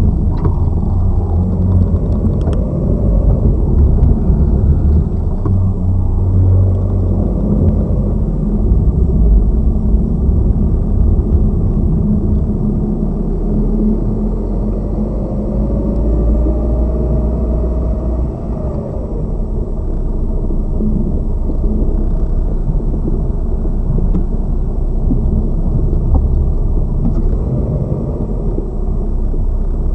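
Road and suspension noise heard from inside the engine bay of a Lada Vesta Cross at its left front strut mount while driving over bumps: a steady low rumble with a couple of faint knocks in the first few seconds. The loud strut knock the owner is hunting is not prominent; that strut's shock absorber has just been replaced.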